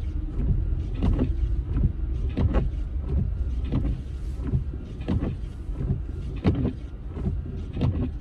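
Car driving on a snow-covered road, heard inside the cabin: a steady low road rumble with repeated short knocks and swishes, about one or two a second.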